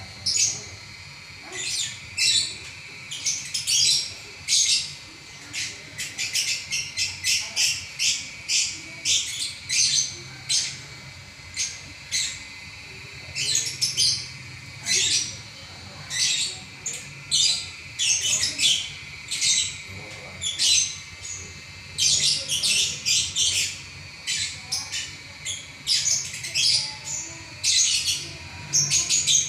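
Lovebird singing without a break, a fast chattering run of short shrill chirps and squawks.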